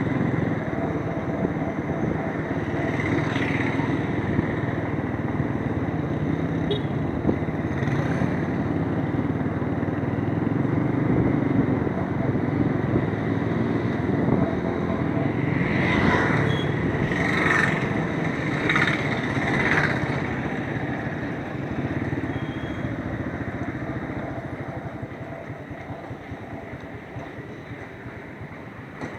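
Motorcycle running on the road, heard from on board. A few short, higher sounds come just past the halfway point, and the sound grows quieter over the last several seconds.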